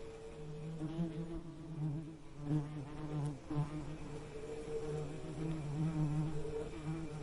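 Bees buzzing: a low, wavering drone that swells and fades, with more than one pitch overlapping.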